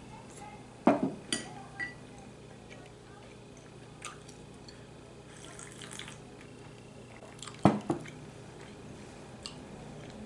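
Eating at the table: short knocks and clinks of utensils against a bowl, with a little liquid sound. Loudest twice, about a second in and near the end, each followed by a couple of lighter clinks, over a faint steady hum.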